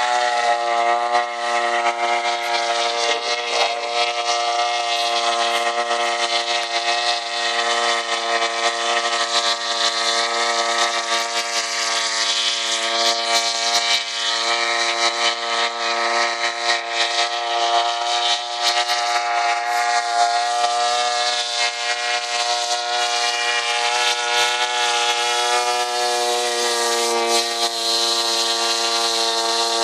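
RC airboat's 62cc two-stroke chainsaw engine spinning an 18x12 propeller at high revs, its pitch holding nearly steady with slight wavers.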